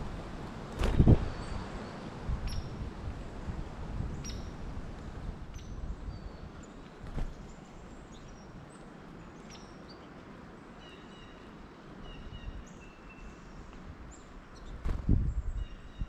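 Songbirds calling around a backyard tray feeder: scattered short high chirps, with a few repeated whistled notes in the second half. These are heard over steady outdoor background noise. Dull knocks and thumps on the feeder, the loudest about a second in and again just before the end.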